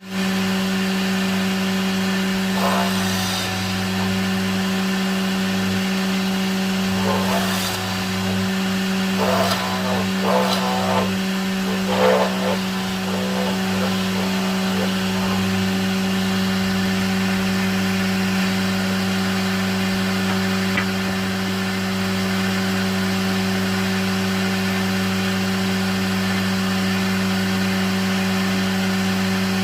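An electric power tool's motor running steadily with a constant hum. In the first half it gets several short, louder rasping bursts, as when the tool bites into wood.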